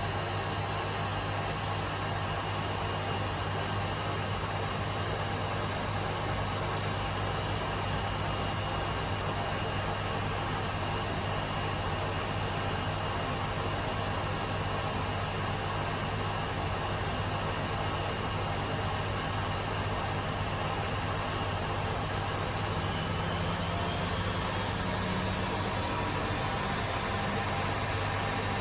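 Two Hotpoint Aquarius washing machines (WMA37 and WMA48) spinning together: a steady drone of motors and drums with high motor whines, one of which rises slightly in pitch near the end.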